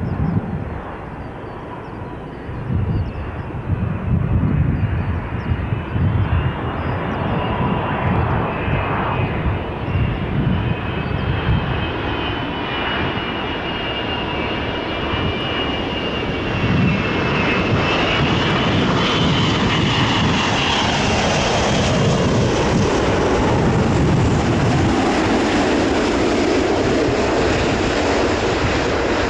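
Jet airliner flying past, its engines giving a high whine over a broad rushing roar that grows louder in the last third. Wind buffets the microphone.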